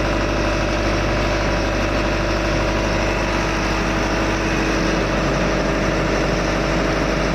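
Ship's engine-room machinery running steadily: an even drone with constant tones and no change in speed.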